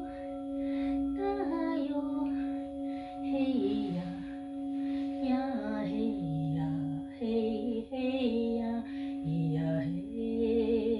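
A woman's voice singing a slow chant in held notes that step up and down, over the steady, unbroken ringing drone of singing bowls.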